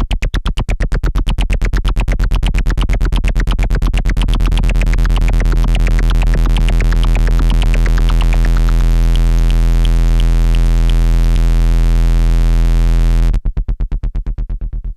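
Arturia MicroBrute analog synthesizer holding a loud, low bass note that is chopped into fast, even pulses, about ten a second. The note cuts off suddenly about thirteen seconds in, leaving a short trail of fading pulses.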